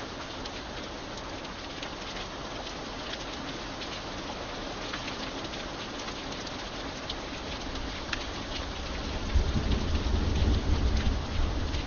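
Steady rain with single drops tapping sharply through it. About nine seconds in, a deep rumble of thunder rolls in and grows louder.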